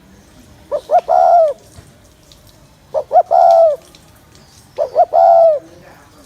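Spotted dove giving its bowing 'gù' coo three times, about two seconds apart. Each phrase is two short notes followed by a longer note that drops off at the end.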